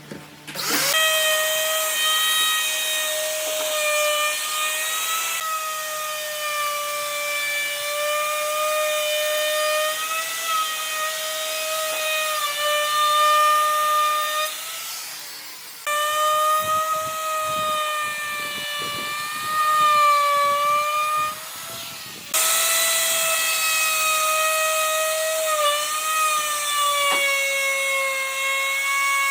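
Electric power tool running at high speed on wood, a steady high whine whose pitch wavers slightly as it works. It stops briefly twice.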